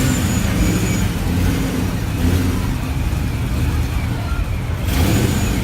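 A vehicle engine running with a deep, steady rumble, with a brief rush of louder noise about five seconds in.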